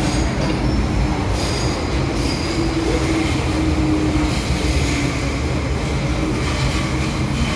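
MTR M-Train electric multiple unit running on rails with a steady rumble. Brief high-pitched wheel squeals come about a second and a half in.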